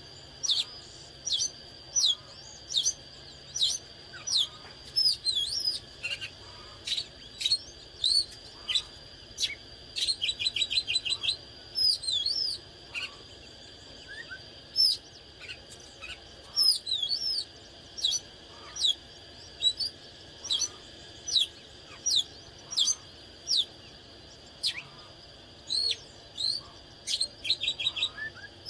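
Oriental magpie-robin singing: loud, varied whistled phrases of short notes that sweep up and down, coming one to two a second. A quick run of rapidly repeated notes comes about ten seconds in and again near the end. A faint steady high-pitched tone runs underneath.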